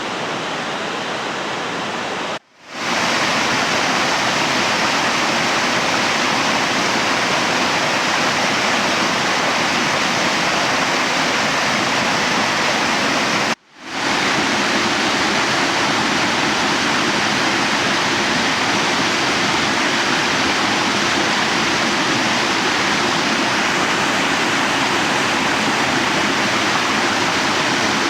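Mountain stream water rushing steadily and loudly. The sound cuts out briefly twice, about two and a half seconds in and again about fourteen seconds in, and fades back in each time.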